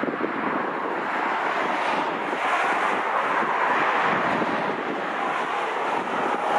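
Jet airliner engines heard as a steady noise that swells for a few seconds in the middle, with wind buffeting the microphone.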